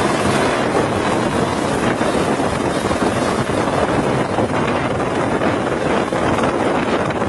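Heavy wind noise on the microphone, a loud steady rushing, over a running helicopter, with a faint steady high whine throughout.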